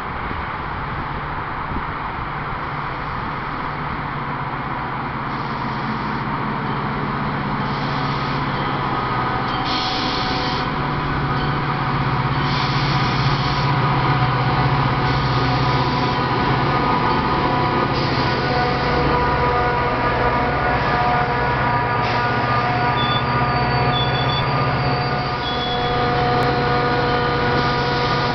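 Metra F40PH diesel locomotive pulling a commuter train into a station, its engine drone growing louder as it approaches. Steady high squealing tones from the wheels and brakes come in about halfway through and strengthen as the train slows to a stop.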